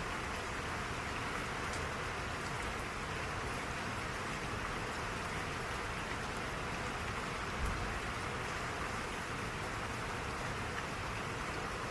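Steady rainfall, an even hiss with faint scattered drop ticks. A brief low thump comes about two-thirds of the way through.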